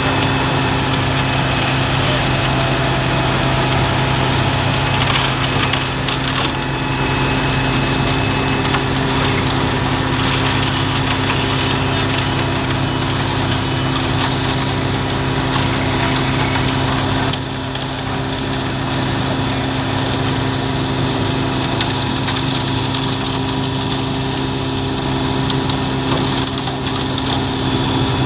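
Concrete mixer truck's diesel engine running steadily during loading, with a continuous gritty rush over the engine tone. The sound drops slightly in level partway through.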